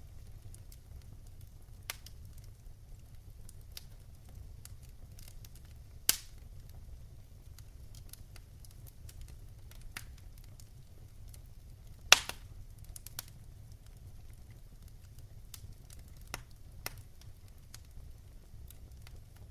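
Wood fire crackling in a fireplace: scattered sharp snaps and pops, the loudest about six seconds in and again about twelve seconds in, over a steady low rumble.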